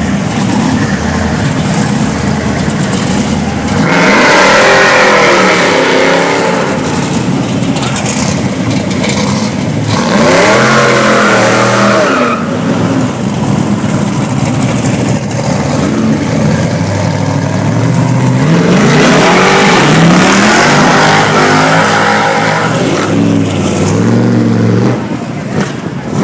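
Hot rod engines revving hard as the cars pull away one after another, the pitch climbing and falling in loud surges about 4, 10 and 19 seconds in, over a steady rush of engine noise.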